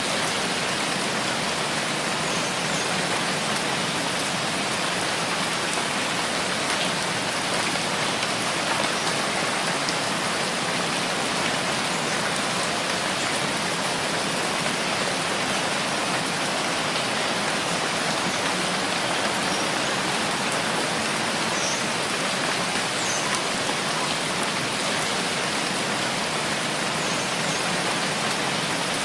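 Steady, even rainfall hiss that never lets up.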